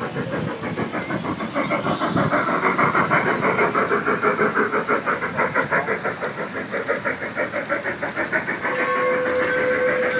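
G-gauge model train on a garden railroad, its chuffing sound running in a quick even beat of about four to five a second, then a steady whistle tone held near the end.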